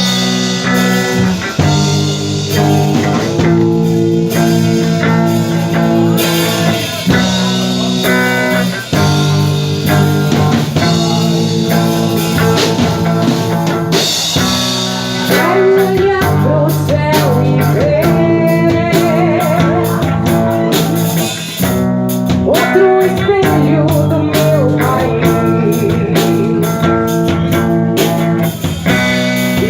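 Rock band playing live: electric guitar chords changing every few seconds over a drum kit. About halfway in, a wavering melody line enters and the drumming gets busier.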